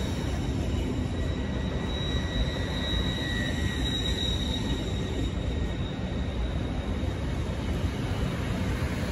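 LNER Azuma (Hitachi Class 800/801) train rolling past close by: a steady low rumble of wheels on the track, with a faint high-pitched whine for a few seconds near the middle.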